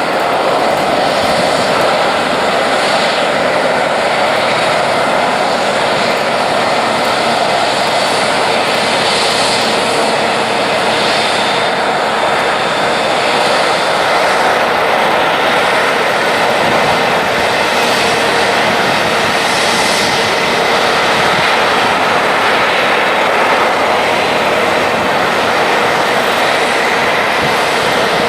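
Jet airliner engines: a loud, steady rush of jet noise with a faint high whine.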